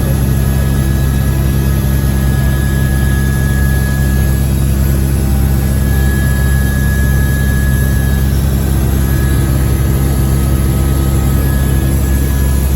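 Helicopter in flight: a loud, steady drone of rotor and engine with a thin, steady whine above it.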